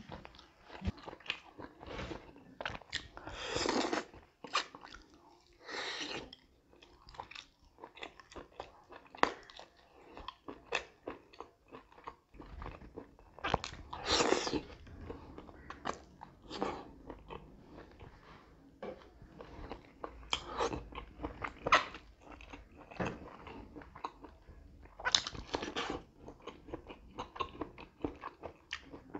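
Close-miked chewing of pork eaten by hand: wet smacks and clicks of lips and tongue throughout, a few louder and longer than the rest.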